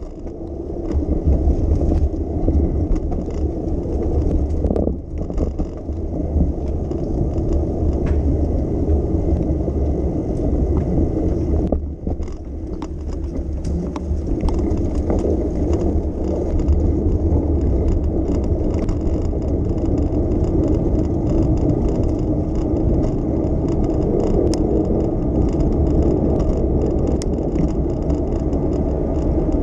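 Riding a bicycle through city streets: a steady rumble of tyres on the road and wind on the microphone, with traffic around, dipping briefly twice.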